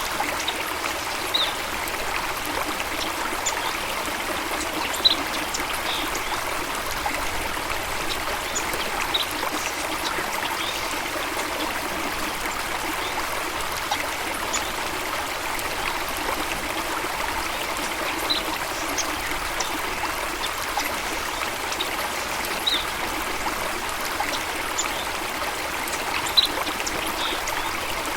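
Stream of water running and trickling steadily, with a few brief high ticks and splashes scattered through it.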